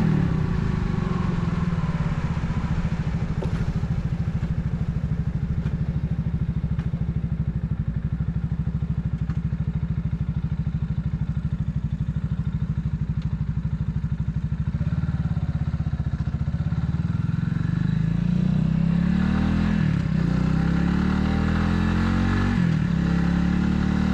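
Italika 250Z motorcycle engine running at low, even revs, then accelerating from about fifteen seconds in, with two brief dips in pitch near the end as it shifts up through the gears.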